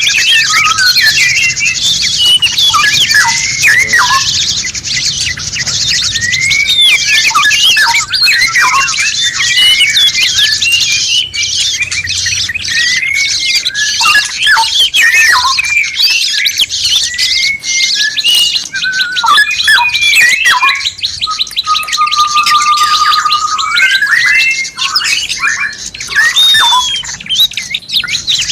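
Several songbirds calling and singing over one another in a busy mix of quick whistled chirps and slurred notes, over a constant high-pitched buzz. About two-thirds through, one long held whistle rises sharply at its end.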